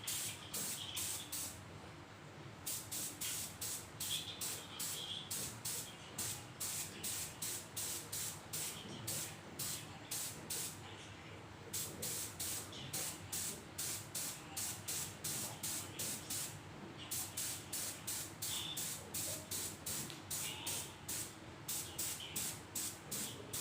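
Spray paint hissing out in rapid short spurts, about two to three a second, with a few brief pauses, as a motorcycle rim is painted.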